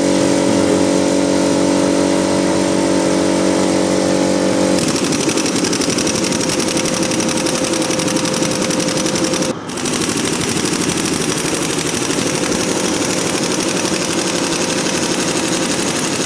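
A machine running steadily, with a rapid rattling texture. Its tone changes about five seconds in, and it drops out briefly near ten seconds.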